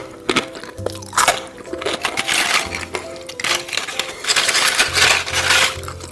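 Close-miked crunchy bites and chewing of crisp food, in loud crackling bursts, over background music.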